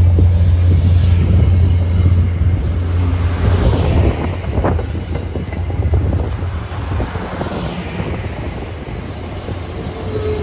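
Diesel commuter train running by, its low steady engine rumble and rolling noise gradually fading, with wind on the microphone.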